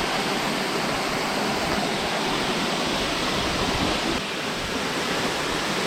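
Water pouring down a waterfall: a steady rushing noise that holds even throughout.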